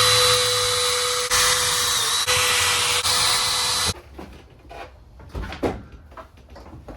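Power drill running at steady speed for about four seconds, with a held motor whine that dips briefly about two seconds in, then stops abruptly. A few light knocks follow.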